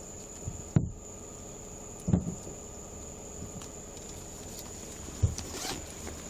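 Three sharp knocks or bumps, about a second in, two seconds in and after five seconds, over a faint steady high-pitched whine.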